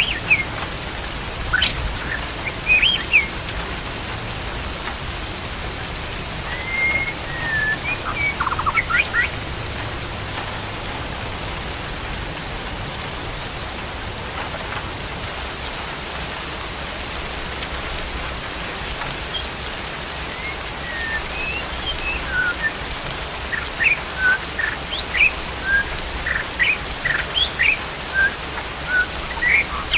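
Wild birds chirping and whistling in short notes over a steady hiss of rain. The calls come in a few clusters near the start and a third of the way in, then grow busy through the last third.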